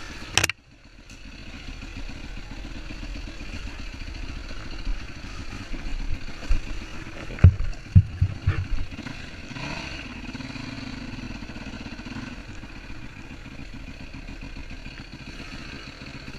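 Motorcycle engine running steadily, with a sharp click just under half a second in and a cluster of low knocks around the middle.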